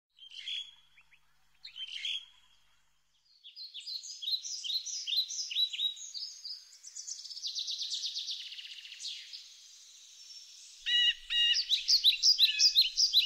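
Songbirds singing: strings of short high chirps and trills, two brief calls at first, then continuous song that gets louder with fast chirp runs near the end.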